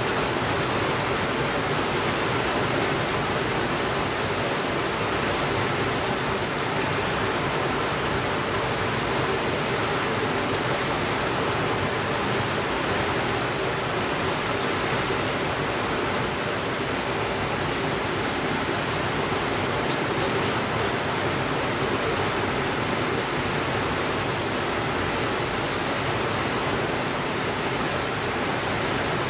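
Steady, even rainfall hiss with no thunder, holding the same level throughout.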